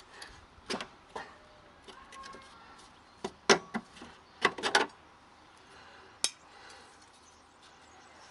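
A run of light clinks and knocks, like small hard objects being handled and set down, with most of them bunched together about three and a half to five seconds in and a last sharp one at about six seconds.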